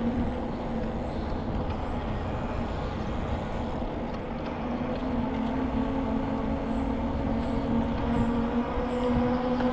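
A steady motor-vehicle hum holding one pitch, which fades briefly about four seconds in and returns about a second later, over a low rumble of wind on the microphone. Faint high bird chirps repeat through the second half.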